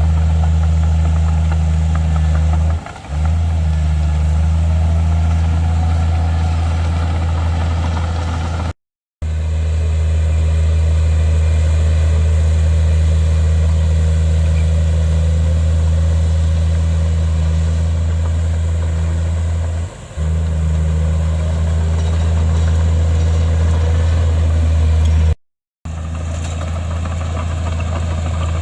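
Heavy diesel engine of a bulldozer running steadily at a constant, deep pitch. The sound dips briefly twice and cuts out completely for a moment twice.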